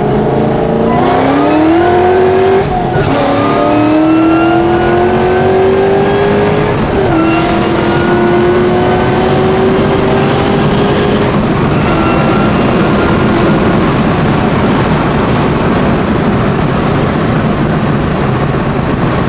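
Inside the cabin, a 2003 Mustang SVT Cobra's supercharged V8, running an SVT Performance Comp II exhaust, accelerating hard. The engine pitch climbs, drops at upshifts about 3 and 7 seconds in, and climbs again until about 11 seconds in. It then settles into a steady drone with road and wind noise.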